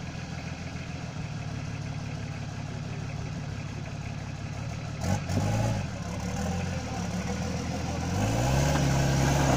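Toyota Land Cruiser's engine idling steadily, then revved up and back down about halfway through. Near the end it is held at higher revs and gets louder as the 4x4 works over the rocks.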